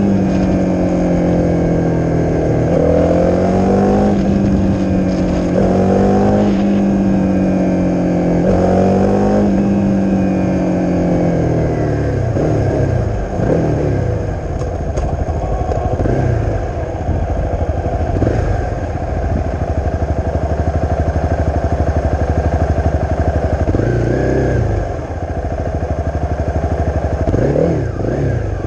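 Honda CRF250's single-cylinder four-stroke engine through a Leo Vince aftermarket exhaust, pulling up through the gears: the pitch climbs and drops back several times in quick succession. About twelve seconds in it settles to lower, steadier running, with a few short throttle blips near the middle and end.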